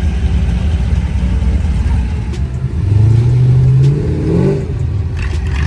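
Car engine idling with a low rumble, then revved about three seconds in, its pitch rising for a second or so before falling back.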